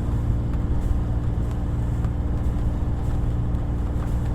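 Sailing yacht's inboard engine running steadily while motoring under way, a low drone with a steady hum above it.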